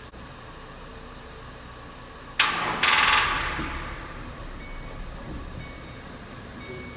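2008 Mustang GT's starter trying to crank the engine on a nearly dead battery: a sudden loud burst about two and a half seconds in, a brief break, then a second short burst with a fast rattle that fades away; the engine does not catch.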